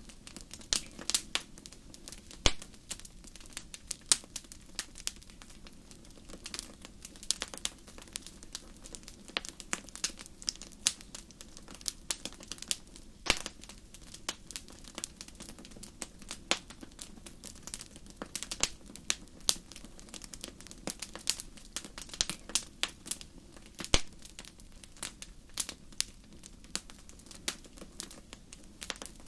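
Wood fire crackling in a fireplace: irregular sharp pops and snaps, several a second and uneven in strength, over a low steady background.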